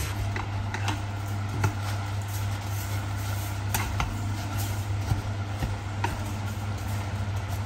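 Leafy greens cooking in a pan on a cooktop, stirred with chopsticks: a steady low hum and hiss, with a few light clicks of the chopsticks against the pan.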